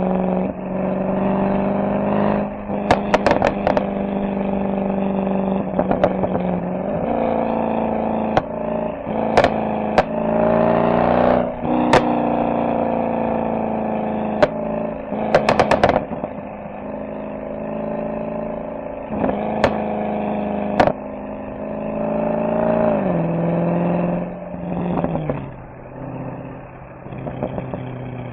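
Mercedes SL63 AMG V8 exhaust at low speed, its pitch rising and falling as it accelerates and changes gear. Several short sharp cracks come through, and the engine settles lower near the end.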